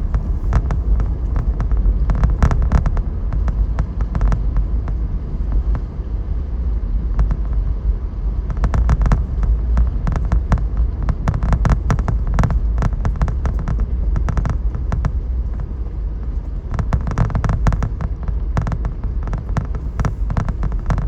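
Vehicle cabin noise while driving: a steady low road rumble with a heater blower fan running, broken by bursts of rapid crackling clicks near the start, through the middle and near the end.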